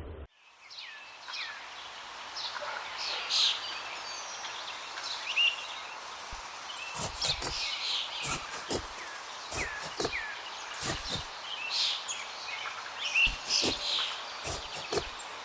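Many small birds chirping, short rising and falling calls one after another over a steady hiss, with a scatter of sharp clicks in the second half.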